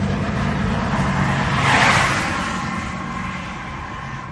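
Highway driving noise: a steady low engine and tyre hum, with a vehicle passing close by, its rushing sound swelling to a peak about two seconds in and fading away.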